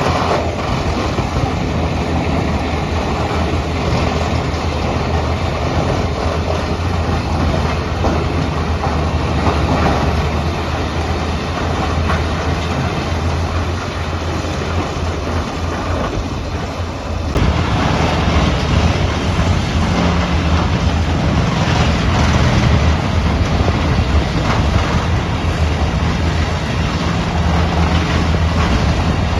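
Crawler-mounted hydraulic tub grinder running, a steady engine drone under a dense clattering of wood being ground. The sound changes abruptly and gets somewhat louder a little over halfway through.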